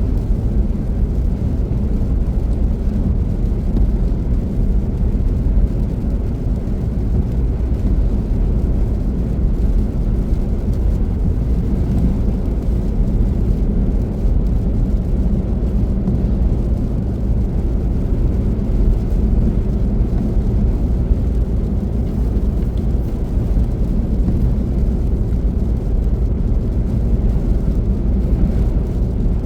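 Car driving: a steady low rumble of road and engine noise, unchanging throughout.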